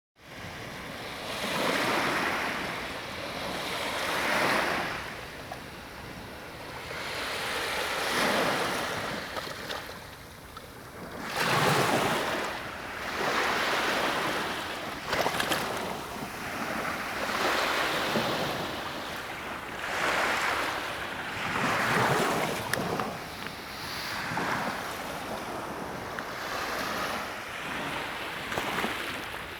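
Sea waves breaking on the shore, the surf swelling and fading in repeated surges a few seconds apart, the loudest about twelve seconds in.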